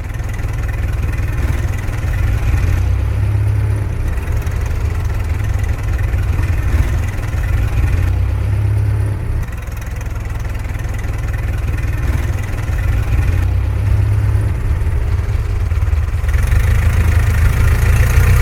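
Old car engine idling steadily with a deep, low rumble that swells slightly every few seconds.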